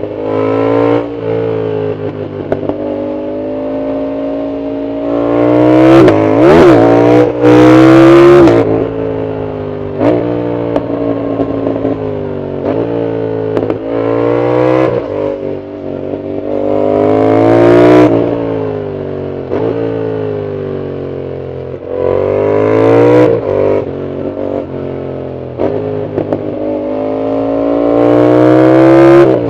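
Yamaha MT-07's 689 cc CP2 parallel-twin engine through a full aftermarket exhaust, heard from the rider's seat. It accelerates hard again and again, its pitch climbing and then dropping back at each gear change. It is loudest around six to eight seconds in, where the pitch wavers up and down, and a long climb near the end is cut off sharply.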